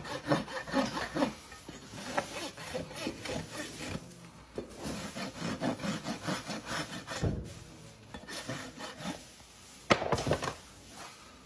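Hand tool scraping and rasping on a horse's hoof in repeated short strokes, coming in uneven runs, with one sharper, louder stroke near the end.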